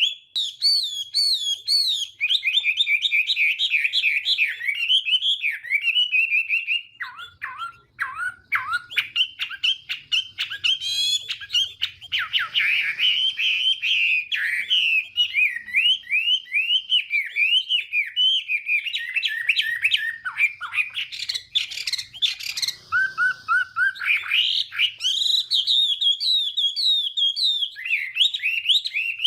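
Chinese hwamei singing a long, fast, varied song of whistled rising and falling phrases, with only a couple of brief pauses.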